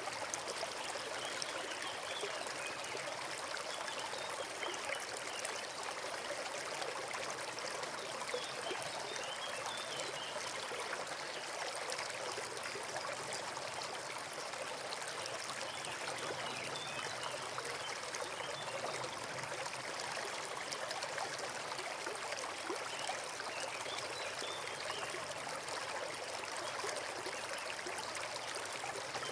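Forest stream flowing steadily, a continuous babble and trickle of running water.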